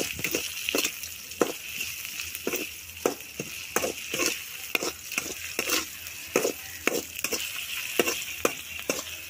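Onions and tomatoes frying in oil in a metal pan, sizzling steadily, while a steel spoon stirs them, scraping and clinking against the pan about two or three times a second.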